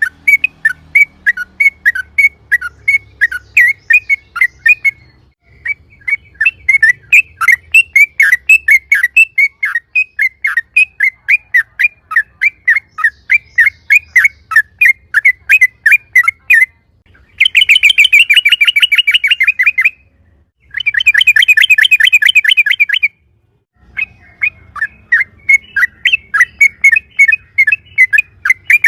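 Yellow-vented bulbul (trucukan) singing loudly: quick repeated chirping notes, about four or five a second, broken twice near the middle by fast rolling trills of two to three seconds each.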